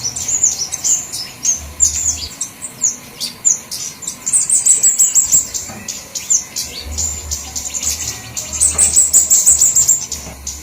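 Flowerpeckers calling: rapid bursts of very high, thin chirps and ticking trills, several birds overlapping, used as a lure call to draw flowerpeckers in.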